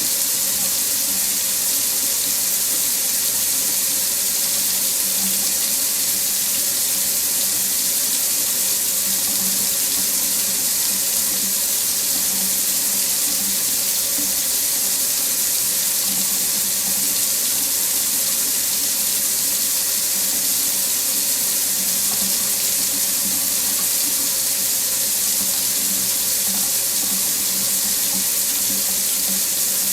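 Water running steadily from a faucet into a sink, an unbroken hiss with a low gurgle beneath it.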